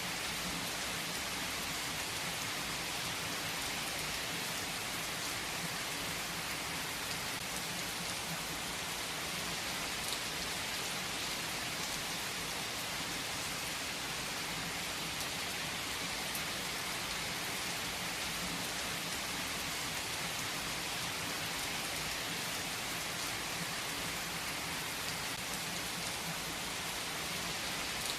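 Steady rainfall, an even hiss with scattered individual drops hitting a surface.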